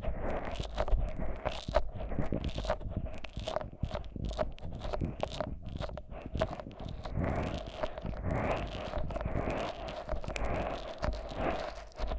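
Fingers rubbing thick Vaseline over the silicone ears of a 3Dio binaural microphone, making sticky, squelchy rubbing full of small rapid clicks.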